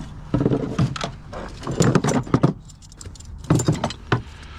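Tools and gear being handled, making clinks and rattles that come in short clusters with pauses between.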